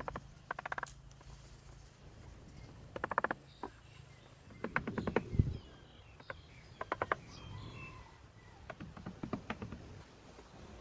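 Five short bursts of rapid clicking, the loudest about five seconds in, with faint bird chirps between them.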